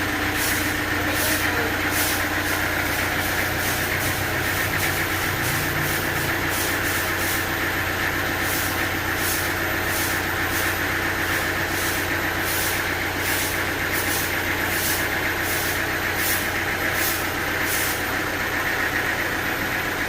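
Sawmill machinery running steadily: an engine hum with a steady whine over it and a rapid, uneven ticking.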